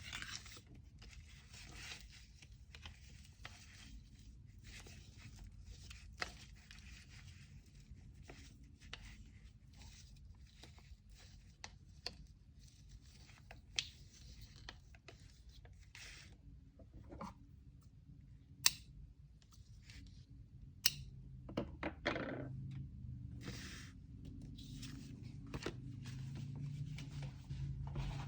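Hands packing an order with kraft paper and tape: irregular paper rustling and tearing, with a few sharp taps and clicks and a louder scraping rustle a little past the middle. A low steady room hum runs underneath.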